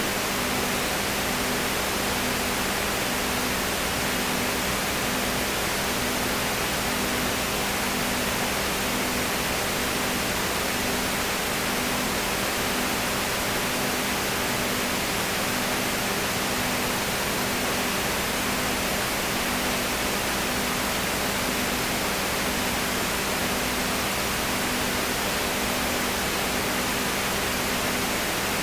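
Steady hiss with a low hum, one hum tone pulsing on and off about every two-thirds of a second.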